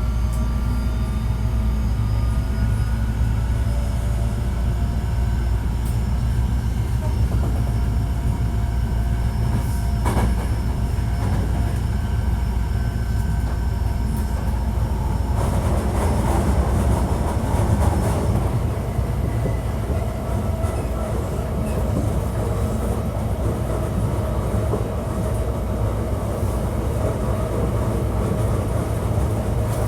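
Hankyu 1300 series electric train heard from inside the car while running between stations: a steady deep rumble of wheels on rail with faint motor whine tones. There is a single knock about ten seconds in and a rougher, noisier stretch around the middle. This unit is known for an abnormal running noise.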